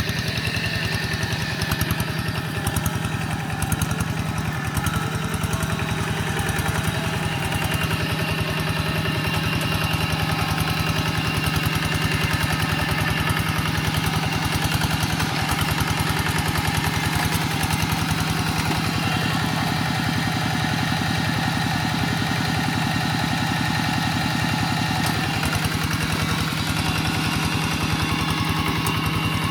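Quick G1000 walking tractor's engine running steadily, the tractor pulling a moldboard plough through wet soil.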